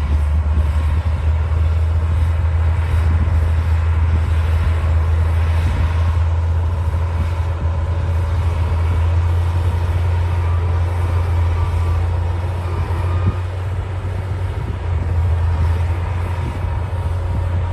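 D60 bulldozer's diesel engine running steadily under load, a loud low drone that eases slightly about two-thirds of the way through.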